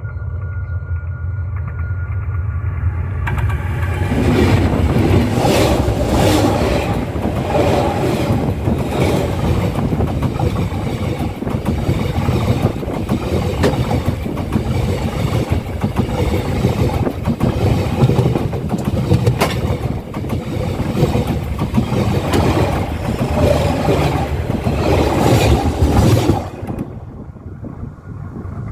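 Railway train passing close by: a rumble with wheels clacking over the rail joints, rising sharply about three seconds in and dropping away a couple of seconds before the end, leaving a steady low hum.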